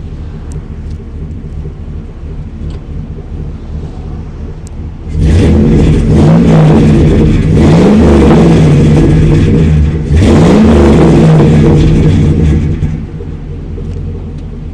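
Chevy 5.3-litre V8 exhaust through a Flowmaster 50 Series dual exhaust, idling steadily and then revved in two loud bursts of rising engine pitch from about five seconds in, settling back to idle near the end.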